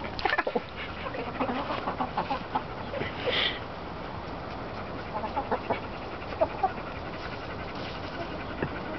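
Chickens clucking in short, scattered calls, with light taps and scuffs between them.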